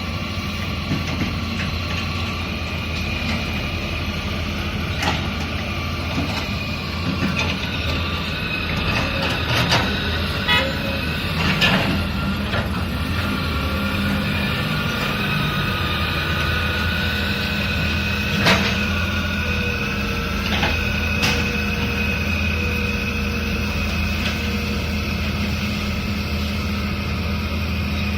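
Heavy diesel construction machinery running steadily, with a steady high whine over the engine's hum. Several sharp knocks come through it, the clearest about twelve and eighteen seconds in.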